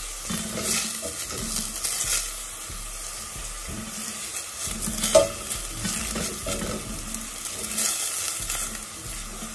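Diced onion and garlic sizzling in melted butter in a stainless steel pot, with a silicone spatula stirring and scraping across the bottom in repeated strokes. One sharp, ringing clink against the pot about five seconds in.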